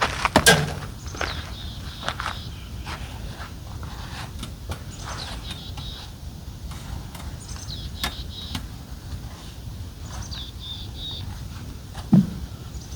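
Scattered knocks, clicks and rustling from a roof-top tent being folded up by hand, with a loud clack just after the start and a dull thump near the end. Birds chirp several times in the background.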